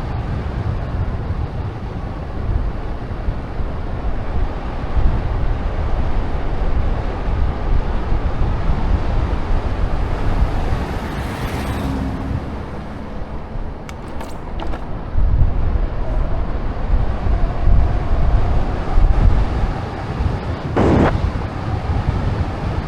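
Wind buffeting the microphone of a moving bicycle rider's camera: a loud, steady low rumble. There are a few small clicks about two-thirds of the way through and a short sharp sound near the end.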